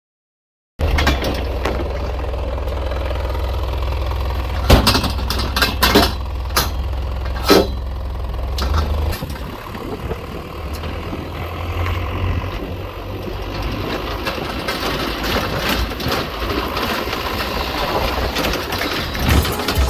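A truck on the move, heard from its open back: a steady low rumble of engine and road noise that starts abruptly about a second in, with a few sharp knocks a few seconds later.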